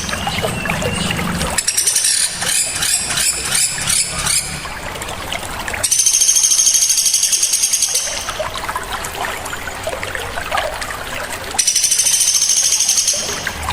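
Sharp, harsh songbird calls from a looped birdsong training recording. A fast, high buzzing trill comes back about every six seconds. About two seconds in there is a rapid run of repeated notes, and scattered short chirps fill the gaps between.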